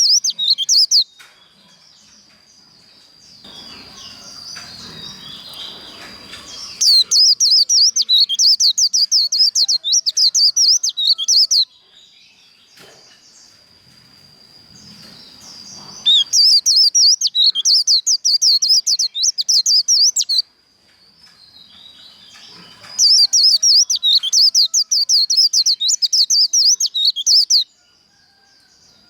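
White-eye (vành khuyên) singing its fast, high 'líu' warble in long rapid bursts: a short one right at the start, then three of about four to five seconds each, with quieter twittering between them.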